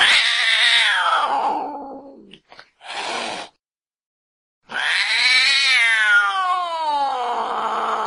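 Recorded domestic cat yowling angrily. A long yowl falls in pitch, then a short hiss follows. After a pause of about a second, a second long yowl rises and then falls.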